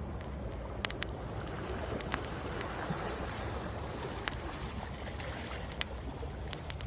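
Wood fire crackling with sharp pops every second or so, over the steady rush of ocean waves; the surf swells a little near the middle.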